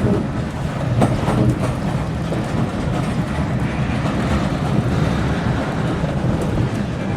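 Steam-hauled train running on the rails: a steady, heavy rumble of wheels and track, with a sharp click about a second in.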